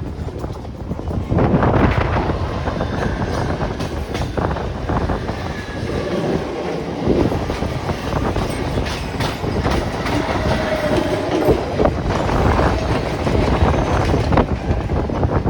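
Mumbai suburban local train, an electric multiple unit, running along the track with its wheels clattering over the rail joints in a continuous rumble.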